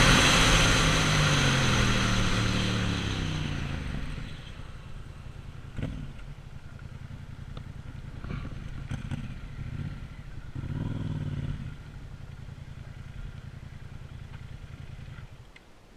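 Yamaha MT-07's parallel-twin engine through an Arrow aftermarket exhaust: its note falls in pitch and fades over the first four seconds as the bike comes off the throttle. It then runs low and steady, with a few brief rises, and cuts off shortly before the end.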